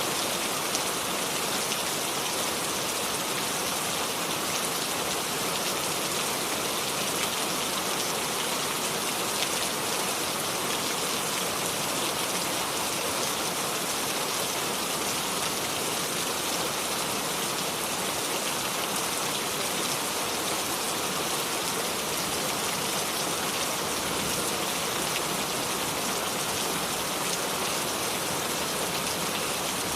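Steady rainfall without thunder: a dense, even patter of raindrops hitting surfaces.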